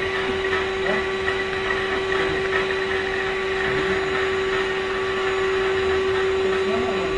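Remote-controlled vacuum cleaner running steadily, its motor giving a constant whine over a noise of rushing air.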